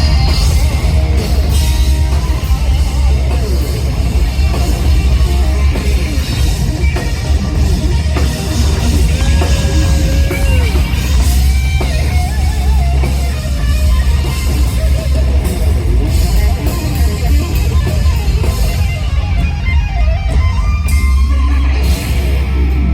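Live hard rock band playing loud: distorted electric guitars over heavy bass and a drum kit, with guitar lines and held notes in the middle.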